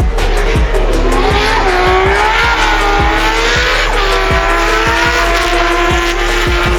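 Drift car engine revving, with tyre squeal, under background music with a steady beat of about two thumps a second.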